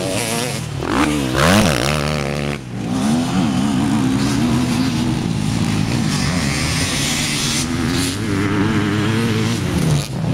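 Honda CR250 two-stroke motocross bike engine revving hard, its pitch climbing and falling as the throttle is worked, with a short drop in power about two and a half seconds in.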